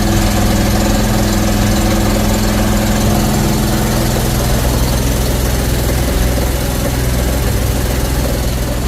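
The 40-horsepower engine of an engine-driven 300-bar high-pressure washer running steadily, its tone shifting slightly about three seconds in.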